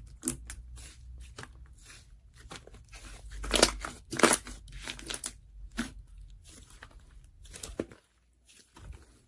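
Irregular clicks and crinkly, crunching rustles close to the microphone, with two louder crackles about three and a half and four seconds in.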